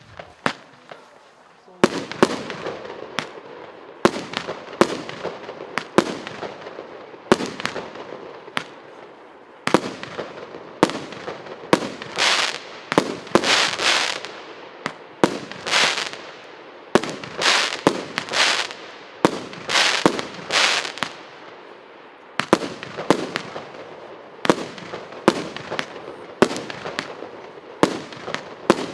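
48-shot 1.25-inch firework cake firing shot after shot, about one or two a second, with many shots carrying a whistling tail before the bang.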